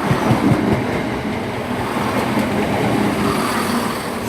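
Class 170 Turbostar diesel multiple unit moving through the station: a steady diesel engine note with rail and wheel noise, easing slightly near the end.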